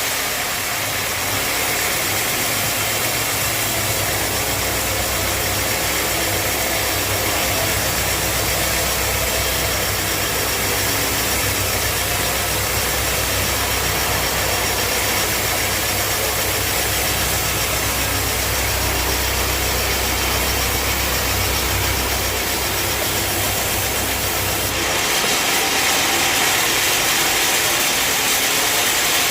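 Sawmill machinery running steadily with an engine-like drone and a broad hiss. Near the end the low hum drops out and the hiss gets louder.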